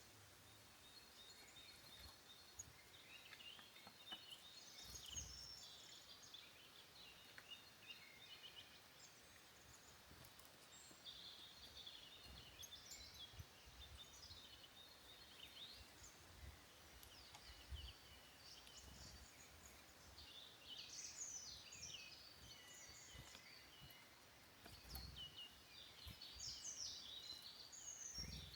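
Faint woodland birdsong: bouts of quick chirps and warbling phrases come and go, with occasional soft low thuds.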